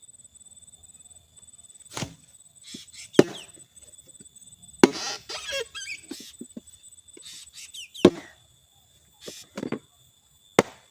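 Bamboo being chopped and knocked with a blade: about six sharp, irregular strikes a second or two apart, with faint bird chirps and a steady high insect-like whine in the background.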